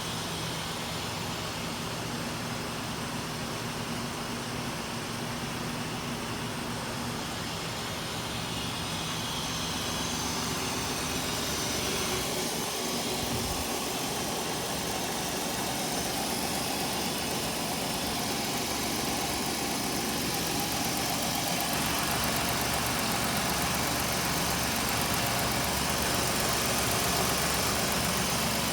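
2005 Jeep Grand Cherokee's 3.7-liter V6 engine idling steadily, getting slightly louder about twelve seconds in.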